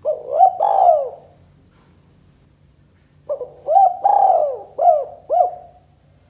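Spotted dove (tekukur) cooing: a short phrase right at the start, then a longer phrase of several rounded coo notes about three seconds in.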